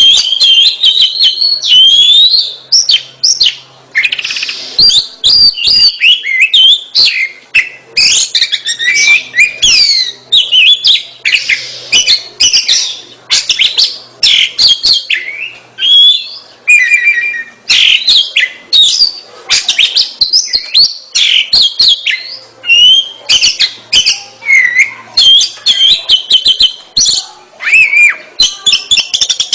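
Oriental magpie-robin (kacer) in full song: a loud, unbroken stream of quick whistled phrases, rising and falling notes and short sharp notes.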